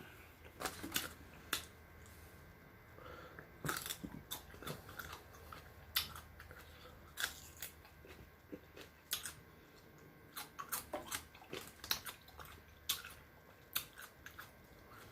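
Close-miked chewing and biting into crispy lemon pepper chicken wings: scattered crunches and wet mouth smacks at an uneven pace.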